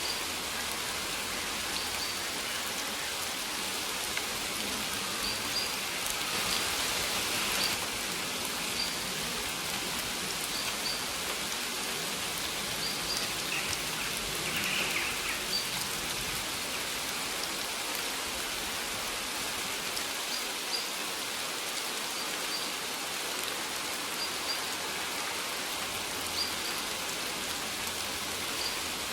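Steady rain falling in an even hiss, with short high bird chirps repeating every second or two.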